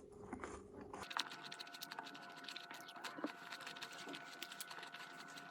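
Faint eating noises: many soft, quick, irregular clicks and smacks of a mouth chewing food, over a faint steady hum.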